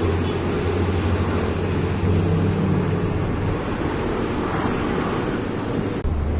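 Heavy diesel engine running with a steady low rumble, with wind noise on the microphone. The sound changes abruptly near the end, at a cut.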